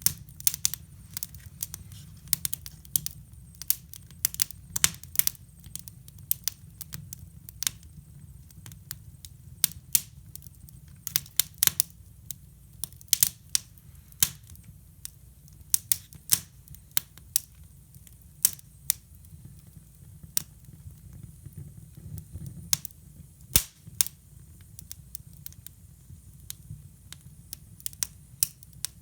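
Wood fire crackling in a hybrid fireplace: irregular sharp pops and snaps, at times several a second, over a steady low rumble.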